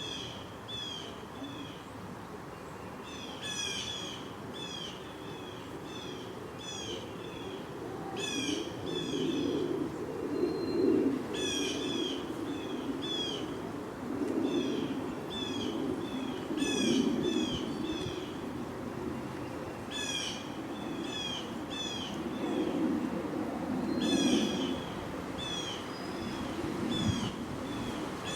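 High, sharp chirping calls from a small animal in the yard. They come in runs of five to eight quick notes, a new run every few seconds, over a low background rumble that swells and fades.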